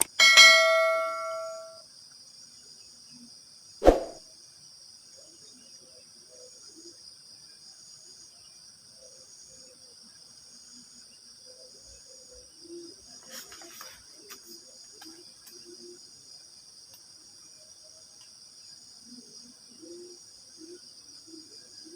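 Crickets chirping in a steady, high-pitched, continuous chorus. Just after the start a single loud metallic ring dies away over about a second and a half, and a sharp knock comes about four seconds in.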